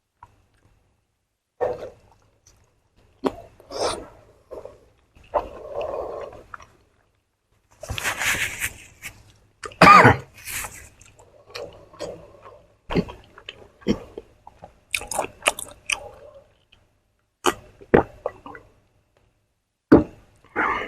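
A person eating, with irregular bursts of chewing and wet mouth sounds separated by short pauses.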